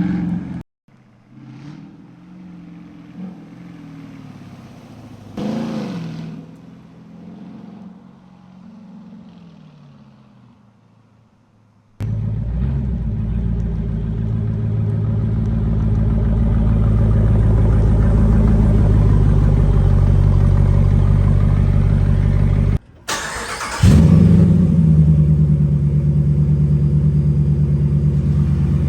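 Dodge Durango's 5.7 L Hemi V8 through a straight-pipe exhaust, in several cut-together takes. First the engine is heard quietly, with one rev about five seconds in. From about twelve seconds it runs loud and deep, slowly building. Near the end it is blipped sharply once and drops back to a loud, lumpy idle.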